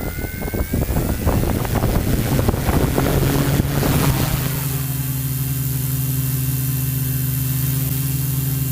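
Custom-built quadcopter's brushless motors spinning up with a rising whine while propeller wash buffets the onboard microphone. About four and a half seconds in, it settles into a steady, even hum.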